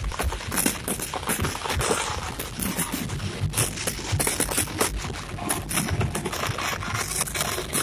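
Fireworks crackling: a dense, irregular string of sharp pops and snaps.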